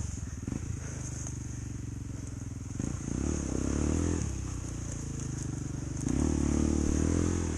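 Enduro motorcycle engine running, revved up hard twice, about three seconds in and again about six seconds in.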